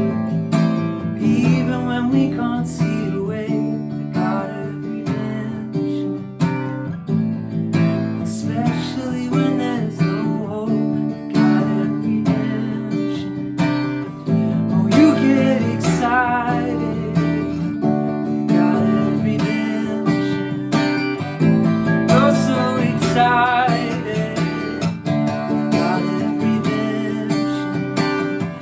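Acoustic guitar strumming chords, with a voice singing over it at times.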